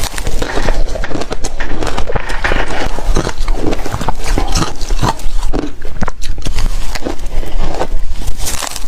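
Ice being chewed: a dense run of irregular crunches and cracks.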